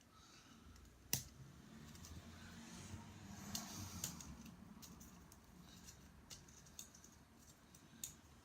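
Faint clicks and light knocks of wooden plywood model-kit parts being handled and fitted together, with one sharp click about a second in.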